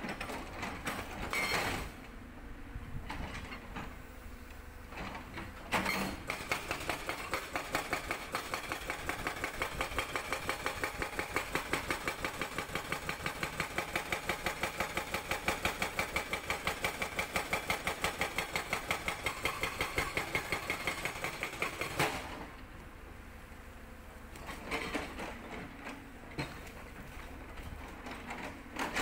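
Hydraulic rock breaker (Sangdo SD220 on a Cat 320D excavator) hammering rock in a rapid, even stream of blows, about four to five a second. It starts suddenly about six seconds in and stops abruptly about 22 seconds in. Before and after, the excavator's engine and hydraulics run on more quietly, with a few knocks.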